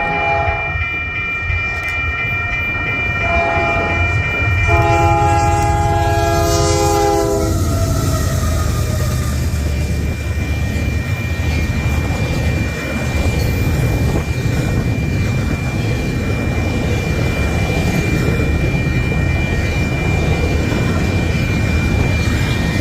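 Diesel freight locomotive's multi-note air horn sounding a short blast, another short blast, then a longer one whose pitch drops as the locomotive passes. The train then rolls by with a steady rumble and wheel clatter.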